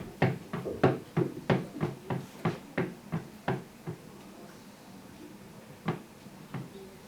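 Foley sound effects: a quick run of sharp knocks or taps, about three a second, that stops after about four seconds and is followed by two more single knocks.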